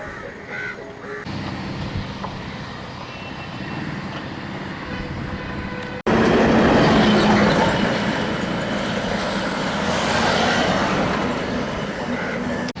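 Steady rumbling vehicle noise across several cut-together shots. It gets much louder suddenly about six seconds in, then eases off near the end.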